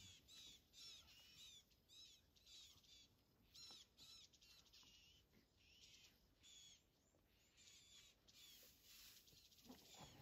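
Faint bird calls: short arched chirps repeated two or three times a second, thinning out in the second half.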